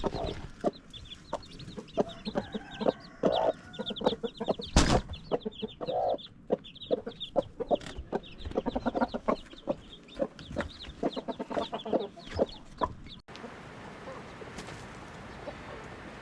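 Chickens clucking, with many short, high calls over the clucks and one loud knock about five seconds in. Near the end the calls stop abruptly, giving way to a steady hiss.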